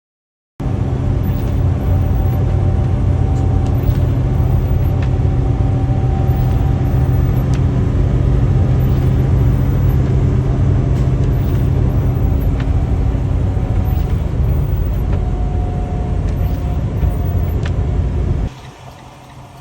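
Semi-truck's diesel engine and road noise heard inside the cab: a loud, steady low rumble with a faint hum. It starts abruptly just after the beginning and cuts off suddenly near the end.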